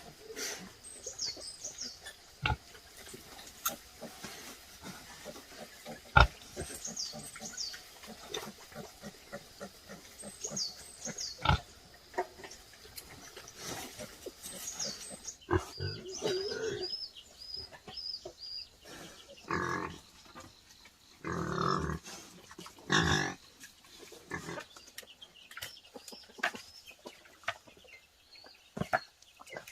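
Pigs grunting in a pen, with scattered sharp knocks and a louder run of pig noises near the end. A bird repeatedly gives short, high, falling chirps over it.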